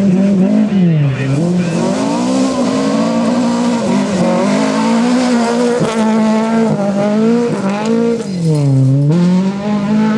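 Volvo sedan rally car's engine revving hard through a gravel corner, its pitch rising and falling all the while and dipping sharply about a second in and again near the end.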